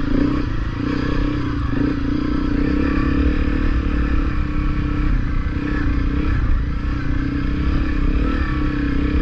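Honda CRF250L's single-cylinder four-stroke engine running at a steady, even pitch as the dual-sport bike is ridden along a rough dirt trail.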